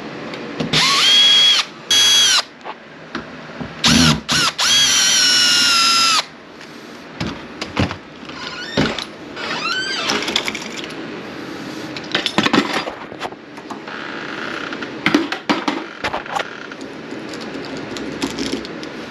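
Power drill running in a few short bursts, its motor whining up to speed and holding for a second or two each time. Then scattered clicks and knocks of hardware being handled.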